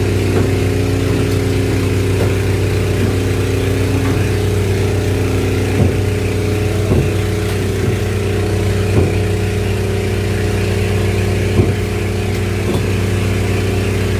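An engine running at a steady speed. A few short knocks sound about six, seven, nine and eleven and a half seconds in.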